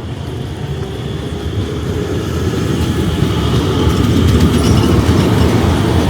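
Tram running on street rails, its rumble growing steadily louder as it approaches.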